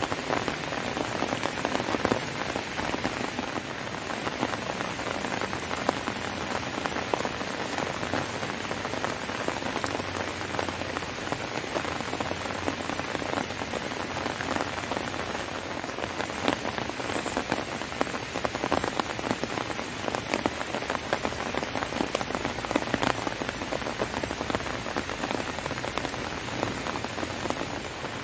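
Heavy rain falling steadily, with many individual drops ticking sharply on a surface.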